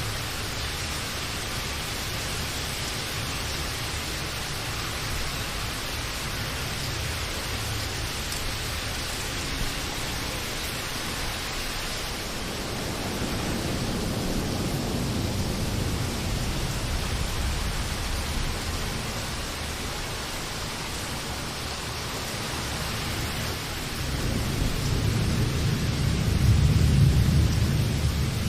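Steady rain hissing, with low rolling rumbles of thunder swelling in twice, the louder one near the end.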